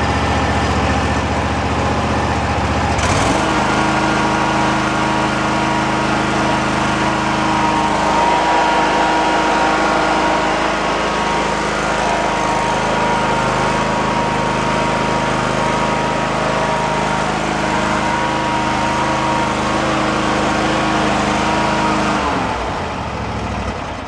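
Husqvarna zero-turn lawn mower's 725cc V-twin engine running at low idle, its speed stepping up about three seconds in and holding steady. Near the end the engine speed falls and it shuts off, the sound dying away.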